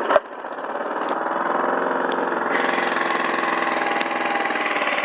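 Petrol lawn mower engine running steadily, with a sharp click just after the start. The sump has a hole blown in it and the engine is smoking from several places, close to seizing.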